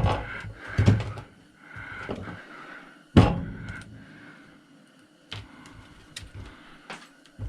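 Knocks and clunks of chop-saw parts being handled during teardown: four knocks in the first three seconds or so, the loudest about three seconds in, then a few lighter clicks.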